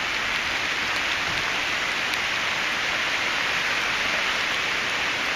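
Steady hiss of hurricane rain falling and pattering on the ground and surroundings, even in level throughout.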